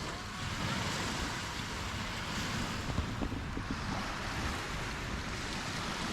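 Sea surf washing on the beach, its hiss swelling and easing every few seconds, with wind buffeting the microphone.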